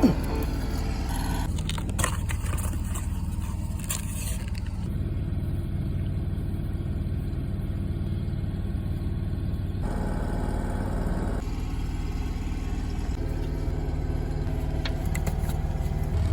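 A steady engine-like hum with a few scrapes and clinks, changing abruptly a few times.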